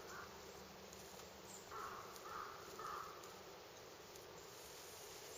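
Faint bird calls: three short calls in quick succession about two seconds in, over quiet outdoor background.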